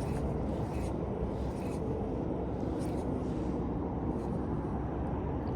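Steady rushing of fast-moving river water, with a few faint clicks.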